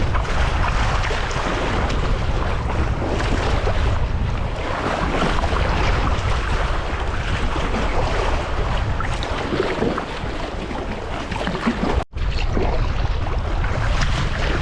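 Wind buffeting the microphone over sea water washing and splashing around a sea kayak under way. There is a brief dropout about twelve seconds in, then the same wind and water noise continues.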